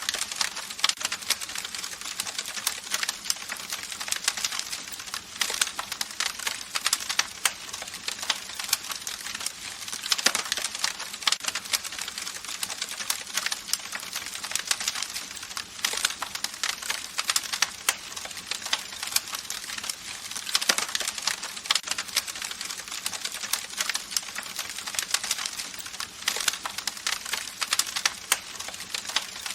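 Campfire crackling: a dense, irregular run of sharp pops and snaps over a steady soft hiss of burning wood.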